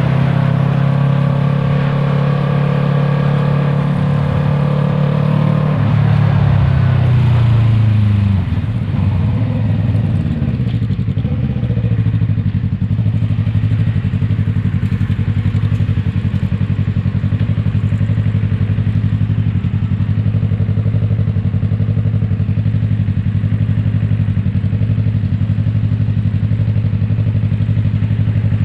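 Yamaha MT-03's 321 cc parallel-twin engine through an Arashi aftermarket exhaust. It holds steady revs, then drops in pitch as the throttle closes from about six seconds in, and settles into a steady, even idle for the rest.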